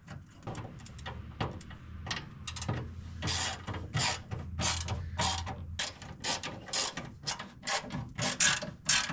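Hand ratchet wrench clicking in quick repeated strokes, about three a second, as it runs nuts down onto the shifter box mounting studs. A low steady hum sits underneath for roughly the first half.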